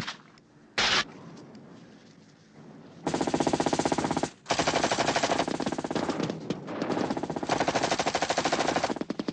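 Gunfire: a short crack at the start and a single loud shot about a second in. From about three seconds there is sustained automatic fire in long bursts, with a brief break a little after four seconds.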